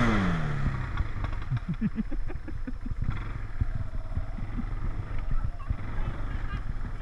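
A motor vehicle passes close by at the start, its engine note dropping in pitch as it goes away, then a 4-wheeler's engine runs steadily under scattered clattering knocks.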